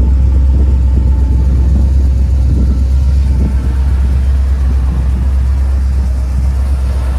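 Steady low rumble, like a car engine running at idle.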